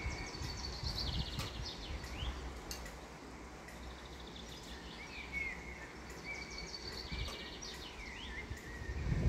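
A songbird singing the same short, fast phrase twice, a few seconds apart: a run of quick high notes ending in a short trill and a couple of falling slurs, over a low rumble of wind.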